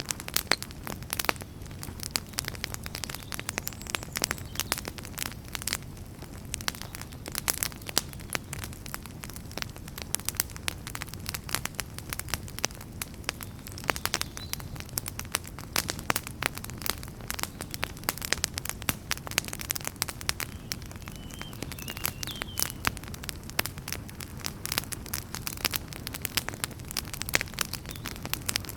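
Wood fire burning in a fireplace: a dense, irregular run of crackles and pops over a steady low rumble of the flames.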